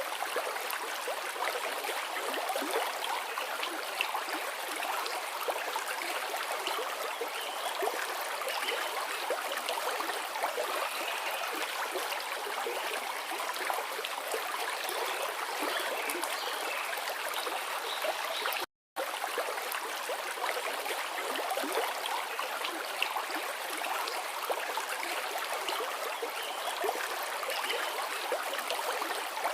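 A forest river flowing: a steady rush and babble of water, broken by a split-second gap of silence a little past halfway.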